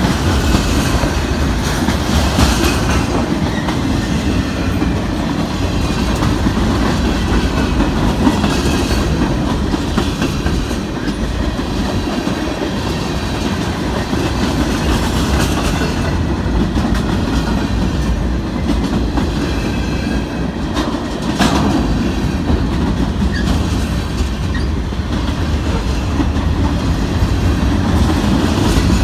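Freight cars of a long mixed freight train rolling past close by, a steady loud rumble of steel wheels on rail. Two brief sharp sounds stand out, one about two seconds in and one about three-quarters of the way through.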